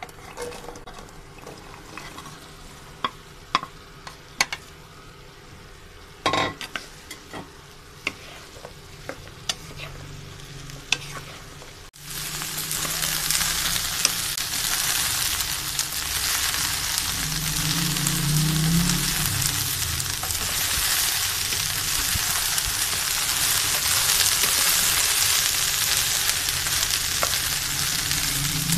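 Chopped okra going into a pan of hot oil and being pushed about with a wooden spatula, with scattered sharp knocks of the spatula against the pan. About twelve seconds in the sound jumps to a loud, steady sizzle of the okra frying in oil as it is stirred.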